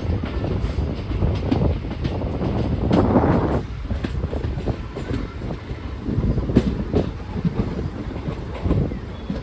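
Train running along the track: a steady low rumble with the clicking of wheels over rail joints, and a brief louder rush about three seconds in.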